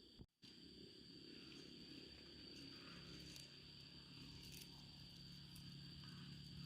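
Near silence: faint outdoor ambience with a steady high-pitched tone and a low hum, broken by a brief dropout just after the start.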